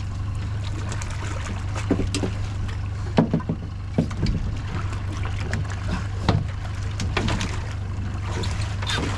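Steady low drone from the boat's motor, with scattered knocks and thuds on the boat as a large queenfish is handled at the net.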